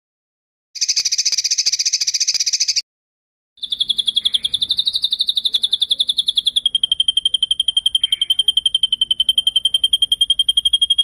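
Songbird trilling on a masteran bird-song training track: a short, buzzy rapid trill about a second in, then after a brief gap a long, high rolling trill that drops slightly in pitch midway and stops at the very end.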